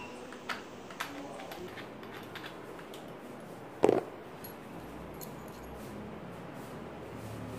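Light metallic clicks and one sharper knock about four seconds in, as a headless bolt is handled and fitted into a drill chuck in place of the bit.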